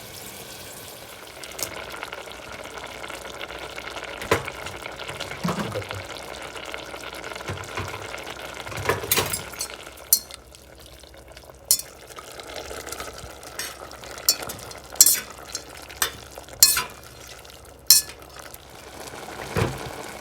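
Dishes and cutlery clinking, about ten sharp clinks spread through, over a steady hiss like food frying.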